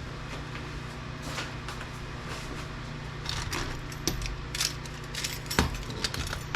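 Small metal scrap parts clinking and knocking as they are handled and set down, in a string of short clicks that come more often from about halfway through. A steady low hum runs underneath.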